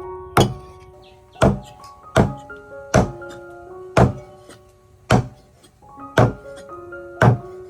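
A heavy knife chopping on a wooden board, about once a second, eight chops in all, over background music.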